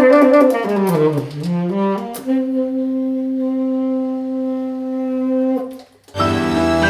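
Music: a solo wind instrument plays a descending phrase, then holds one long note. It breaks off briefly, and a fuller chordal instrument comes in near the end.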